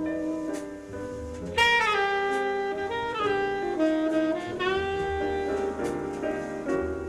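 A jazz vinyl record playing through hi-fi loudspeakers, with a lead horn holding long notes that bend and slide over a steady bass line.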